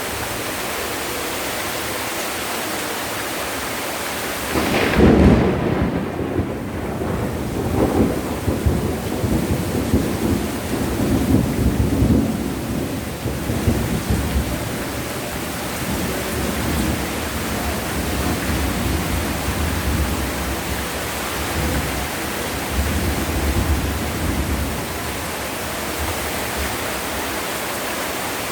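Heavy rain falling steadily. About five seconds in, a sharp thunderclap cracks, then rolls on as a low, rising-and-falling rumble for about ten seconds before fading back under the rain.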